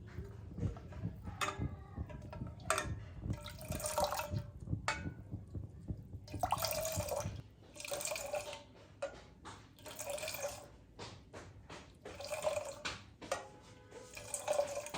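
Liquid being poured and splashing in repeated short bursts, about one every second or two.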